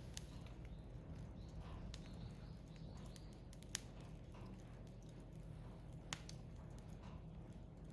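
Firewood burning in a Picogrill fire pit, giving off scattered sharp crackles and pops over a soft hiss and a steady low hum. The two loudest pops come a little before the middle and again about two seconds later.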